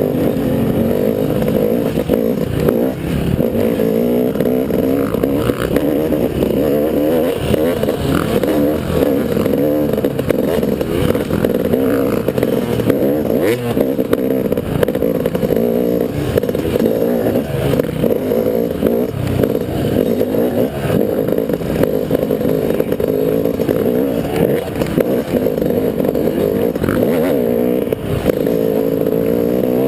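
Motocross bike's engine running under load, revving up and down continuously as it is ridden, with occasional knocks.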